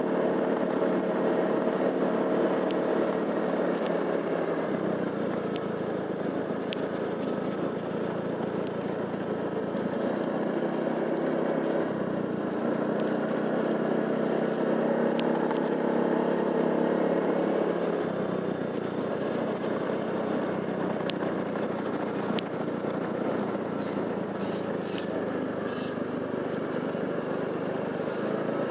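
Motorcycle engine running while riding, its pitch shifting a few times as the rider changes speed or gear.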